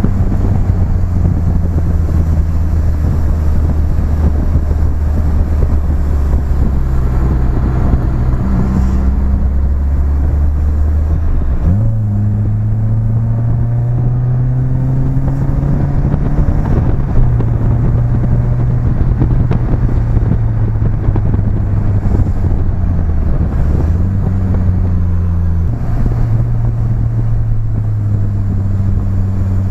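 BMW E30 engine running through a new exhaust while the car is driven. The note holds steady for about twelve seconds, then jumps up and climbs for several seconds as the car accelerates, drops back, and later dips and rises again.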